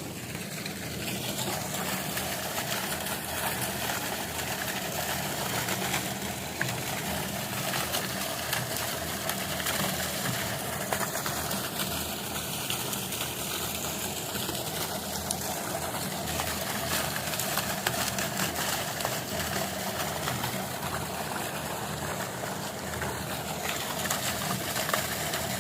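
An engine running steadily under a constant rushing hiss, with fine crackles throughout.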